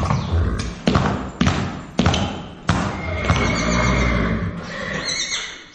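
A horse whinnying: several short, sudden loud bursts, then a longer call whose pitch falls near the end.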